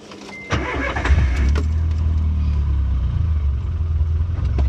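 VW Polo rally car engine starting about half a second in, just after a short beep, then running steadily at idle, heard from inside the cabin. This is the restart after the kill switch was cycled.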